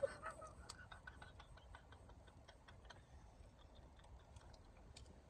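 Faint, irregular small clicks and smacks of someone eating close to the microphone.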